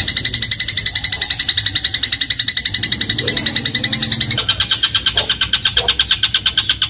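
Eurasian tree sparrow giving a fast, unbroken chattering trill of sharp high notes, many per second, stepping slightly lower in pitch about four and a half seconds in.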